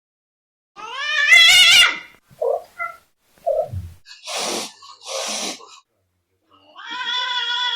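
Cat calling: a loud wavering meow about a second in, two short breathy bursts in the middle, and a longer, steadier meow near the end.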